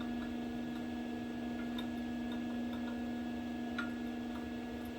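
A steady electrical hum, with a few faint light metallic clicks from steel pieces being handled.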